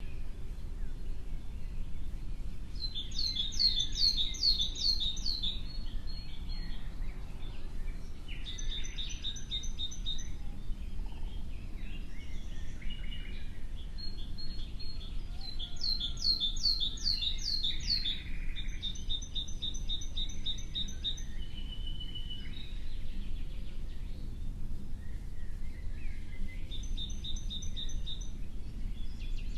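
A songbird singing about five short phrases of quick, rapidly repeated high notes, separated by pauses of a few seconds, over a steady low background rumble.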